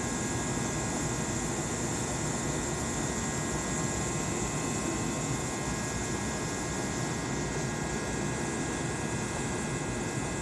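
A Kintetsu electric train standing at the platform, its onboard equipment giving a steady hum with a few faint, constant whining tones.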